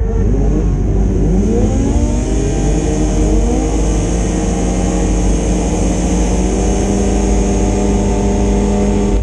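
Several racing motorcycle engines accelerating hard. Their notes climb in pitch over the first couple of seconds, then run steadily at high revs under a constant high hiss.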